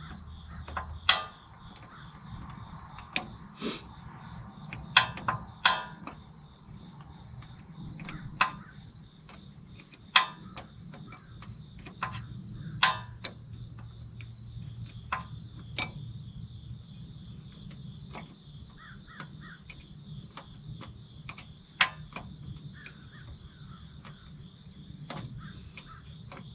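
A steady, high-pitched chorus of insects, with sharp clicks and knocks at irregular intervals, about a dozen in all.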